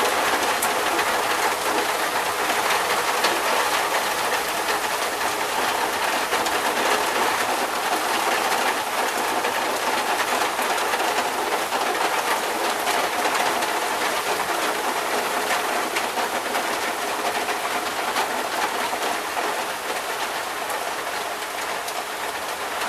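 Heavy rain falling steadily in a thunderstorm, a dense even hiss of drops with no thunderclap, easing a little near the end.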